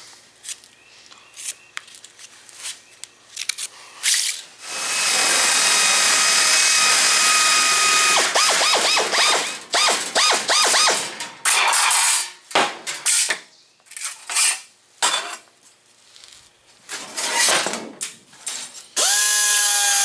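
A handheld electric power tool working sheet metal, running steadily for a few seconds and then in short on-off bursts, with clicks and taps between runs. Its motor spins up again about a second before the end.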